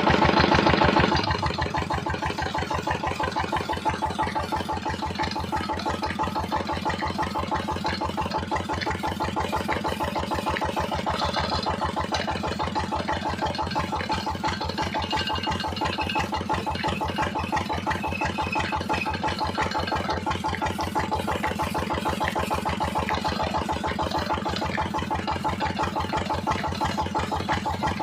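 An engine running steadily with a fast, even pulse. It is a little louder in the first second, then settles to a constant idle.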